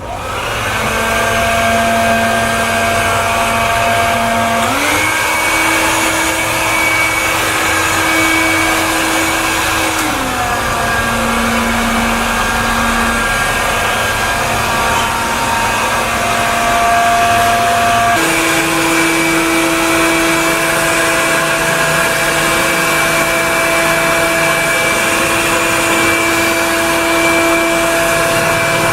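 Small electric motor or blower humming steadily. Its pitch glides up about five seconds in, drops back about ten seconds in, and jumps up again near the middle, as its speed changes.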